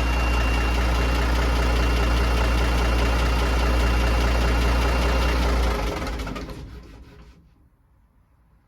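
Big diesel engine of an M923A1 5-ton military truck idling steadily, then shut off about six seconds in: it runs down and stops within about a second and a half. A thin high whine over the idle cuts out a little before the shutdown.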